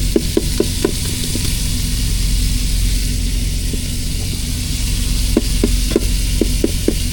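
Ground meat sizzling in a frying pan, with a utensil knocking and scraping against the pan in quick runs of about four strokes a second near the start and again near the end as the meat is broken up. A steady low engine hum runs underneath.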